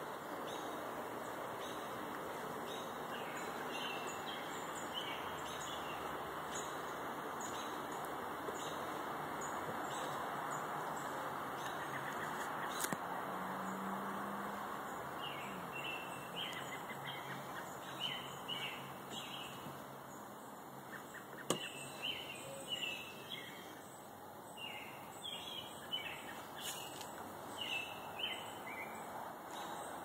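Songbirds chirping and singing in many short, high calls, sparse at first and much busier in the second half, over a steady rushing background noise. Two sharp clicks stand out, one about a third of the way in and another past the middle.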